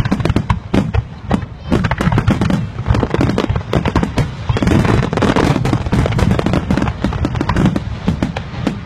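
Fireworks display: a rapid, continuous barrage of aerial shells bursting, with densely overlapping bangs and crackle.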